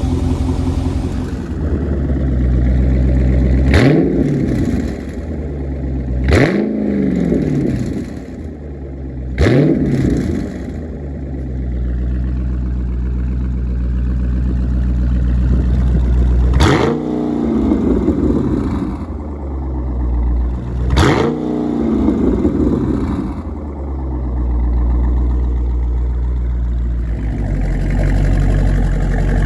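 Dodge Charger Scat Pack's 392 HEMI V8 idling through a Thermal R&D aftermarket exhaust, blipped five times, each rev rising sharply and dropping back to idle.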